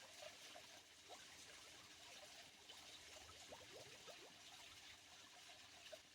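Faint trickle of a small stream over stones, a steady hiss of water with many short gurgling blips.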